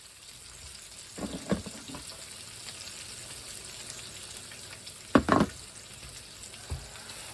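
Bacon sizzling in a frying pan with a steady hiss. A few short knocks or clatters come about a second and a half in, and a louder one about five seconds in.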